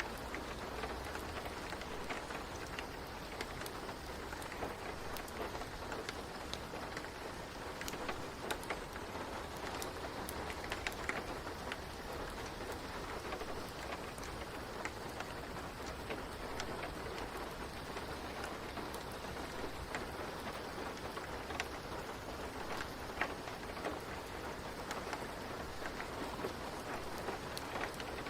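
Steady rain falling, a constant even hiss with scattered sharp little ticks through it.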